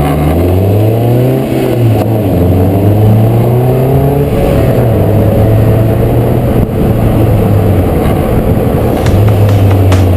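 Caterham Seven Roadsport 125's four-cylinder engine under way, its revs climbing and dropping several times through gear changes in the first four seconds, then held fairly steady.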